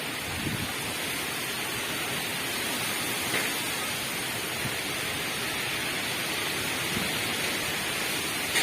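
Heavy downpour: rain falling hard and steadily, a dense even hiss.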